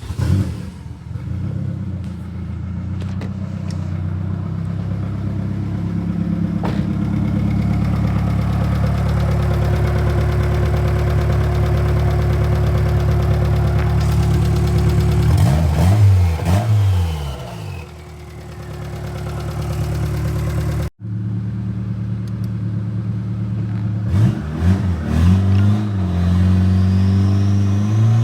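Turbocharged Honda F23 inline-four engine, fitted with new coil packs, running steadily, then revved up and back down about halfway through. After a sudden break, it takes a few quick throttle blips near the end.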